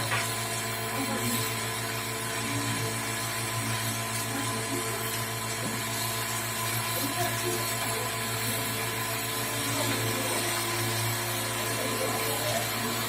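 Motor of a drilling machine tool running steadily, a continuous hum with a few faint ticks.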